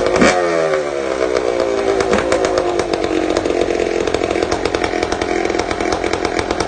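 Kawasaki KDX 220's single-cylinder two-stroke engine running. A quick throttle blip just after the start falls back over a second or so to a steady idle.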